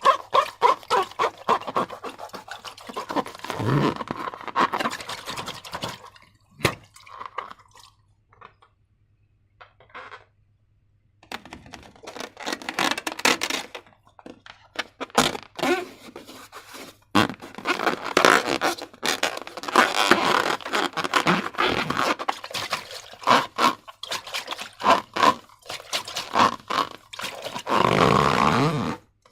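Slime being squeezed and stretched by hand, giving rapid wet crackling and squelching clicks. There is a quiet pause about a third of the way in.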